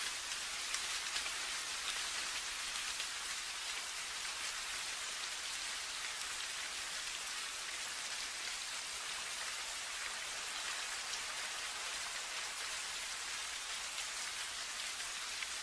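Steady rain falling, a dense even hiss of many small drops pattering.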